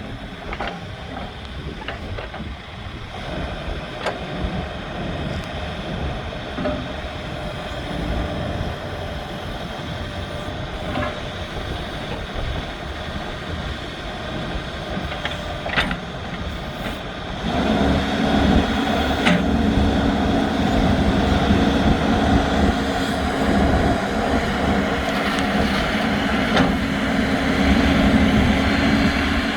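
Case 580N backhoe's diesel engine running steadily, with a few scattered clicks and knocks. A bit past halfway it gets louder and holds there, with a strong steady low drone.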